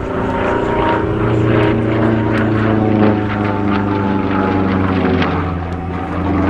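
Sukhoi Su-26MX aerobatic plane in flight: its Vedeneyev M-14P nine-cylinder radial engine and propeller running loud and steady, the pitch shifting slightly.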